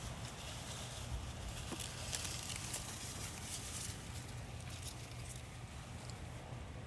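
Quiet outdoor ambience: a steady low rumble under faint, irregular high crackling and ticking, busiest in the first half.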